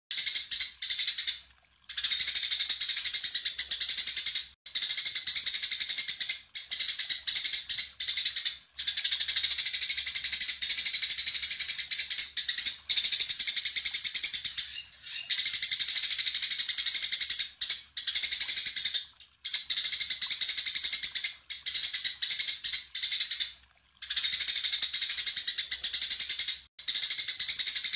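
Songbird song: bouts of dense, rapid high chattering notes lasting a few seconds each, separated by short breaks.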